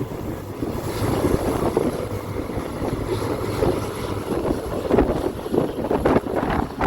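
Passenger train running on the line: a steady low rumble of the coach and wheels on the rails, with irregular knocks from the track that come thicker toward the end.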